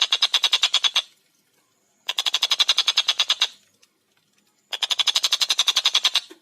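A tengkek buto kingfisher calling: fast, high, evenly spaced notes at about a dozen a second, in three rattling bursts of one to two seconds with short silent gaps between them.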